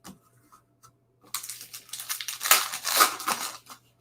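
A trading-card pack wrapper being torn open and crinkled. A burst of tearing and crinkling starts about a second in and lasts a little over two seconds.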